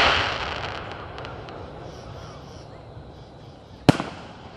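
Aerial fireworks: the crackling hiss of a burst fading away over the first second, then a single sharp bang near the end.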